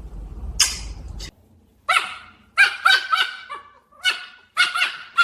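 Young dog barking in a run of short, high-pitched yips, about seven over three seconds, starting about two seconds in. Before that there is a sharp hissing burst over a low hum, which cuts off suddenly.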